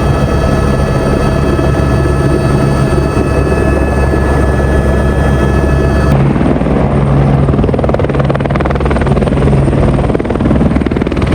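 Helicopter running loudly, a steady engine whine over the rotor noise. About six seconds in the sound changes abruptly: the high whine drops out, leaving a rougher rotor rush.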